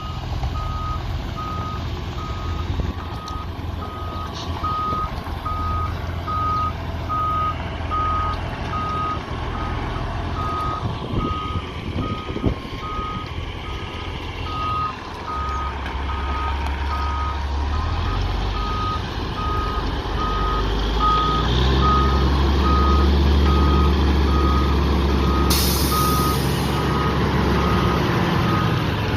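Backup alarm beeping steadily over the low running of a heavy diesel engine as a truck or machine reverses. The engine gets louder about halfway through, and there is a short hiss near the end.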